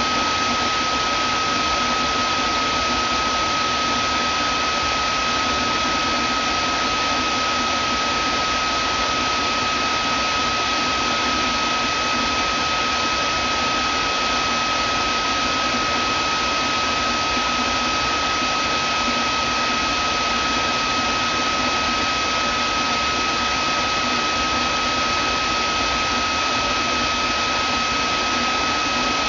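Vacuum cleaner running steadily: an even rush of air with one steady high whine from the motor.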